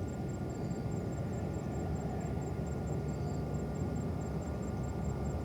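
Steady low rumble of airliner jet engines.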